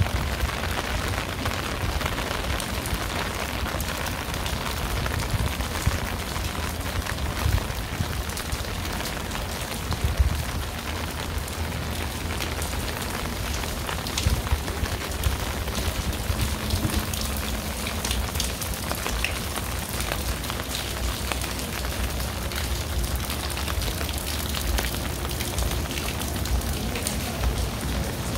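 Steady rain falling, a dense patter of drops over a low background rumble, with a few louder drops or knocks now and then.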